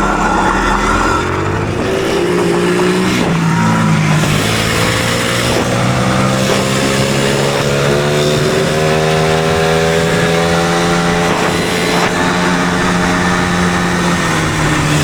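Electric dirt bike's motor whine rising slowly in pitch as the bike accelerates hard on gravel, over heavy wind rush on the microphone.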